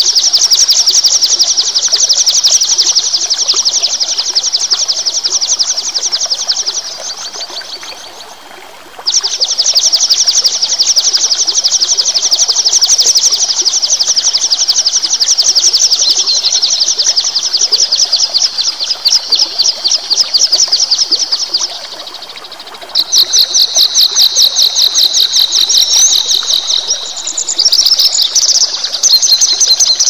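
A songbird singing long, very rapid high trills that run for several seconds at a time, with pauses about eight seconds in and about 22 seconds in, over a faint steady hiss.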